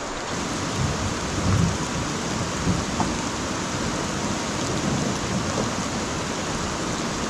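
Steady rain falling, an even hiss with a few low rumbles swelling and fading under it.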